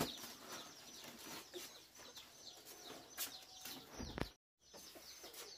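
Birds chirping fast and steadily: many short, high, falling chirps, several a second. A few light clicks, and a dull knock about four seconds in, just before a brief dropout.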